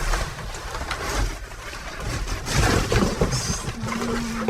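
Plastic and metal clattering and cracking as a computer monitor is pried and broken apart by hand to get at its metal, with busy knocks and rattles throughout.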